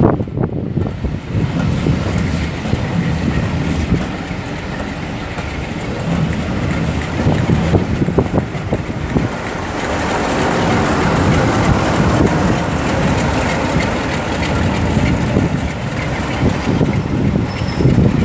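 Train hauled by steam locomotive 35018, a rebuilt Merchant Navy class Pacific, rolling out of the station. A steady heavy rumble with the clatter of wheels on the rails, a few sharp clicks about halfway through, and louder from about ten seconds in.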